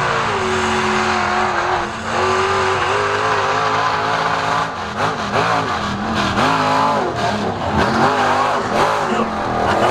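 Mud truck's engine running hard under load while pulling a tire, steady at first and then revving up and down several times from about halfway through.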